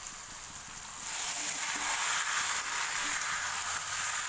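Marinated chicken sizzling in hot oil and masala in a wok, the sizzle growing louder about a second in.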